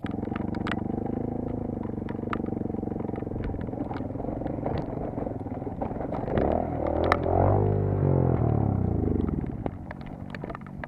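Motocross bike engine running, then revving up, louder and higher about six seconds in, before the revs drop away again. Scattered sharp clicks sound throughout.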